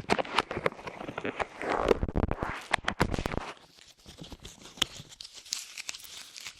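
Light clay squished and pulled close against the microphone's ears, making dense sticky crackles and clicks, louder for about the first three and a half seconds, then softer and sparser.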